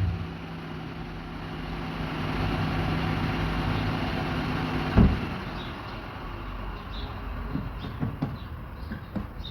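Mitsubishi Lancer's four-cylinder engine idling with a steady hum, then a single thump about five seconds in, after which the hum is gone and only faint bird chirps and a few small clicks remain.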